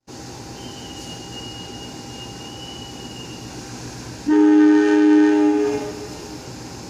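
Train horn blown once, a loud two-note chord lasting about a second and a half, over steady station background noise, with a faint high whine in the first few seconds.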